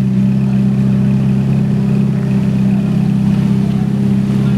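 Supercar engine idling steadily, with an even, unchanging pitch.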